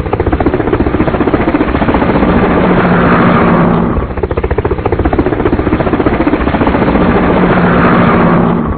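Loud aircraft sound effect: a rapid, steady pulsing engine clatter that runs as a loop of about four seconds, heard twice, and cuts off suddenly near the end.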